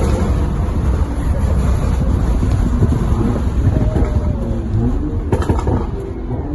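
BMW N55 turbocharged inline-six in an F15 X5, running through a fully straight-piped exhaust with a catless downpipe and no muffler, under way: a loud, deep exhaust rumble with scattered crackles. There are a couple of sharp clicks near the end.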